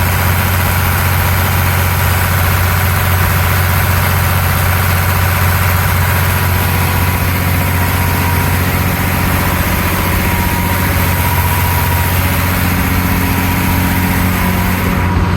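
Volvo Penta TMD50 marine diesel, converted to a naturally aspirated MD50 by removing its faulty turbocharger, running steadily at cruising revs of about 900 RPM, heard up close in the engine compartment. Near the end the higher hiss drops away sharply.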